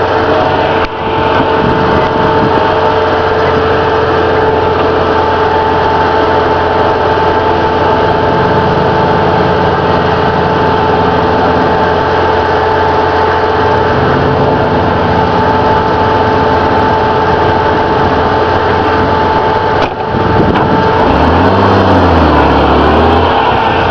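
Mud-bog truck engine running hard and steadily with a high whine, briefly dropping off about a second in and again near twenty seconds, then its pitch dipping and rising as it revs near the end.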